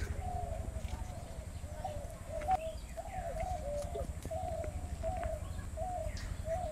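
A bird calls over and over in short, wavering notes, with a few faint clicks and scrapes as taro roots are peeled against an upright boti blade.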